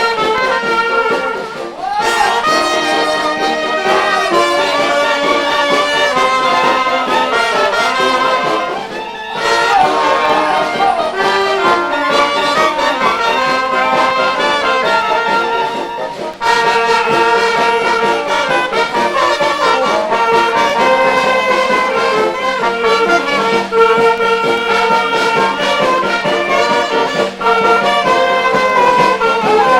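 Brass band music, with trombones and trumpets playing a tune in held, sustained notes, broken by short pauses a few times. A steady low hum runs underneath.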